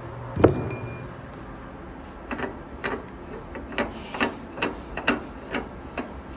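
Metal measuring tools being handled against a machined steel part: a sharp metallic clack about half a second in, then a run of light clicks and clinks, roughly two a second.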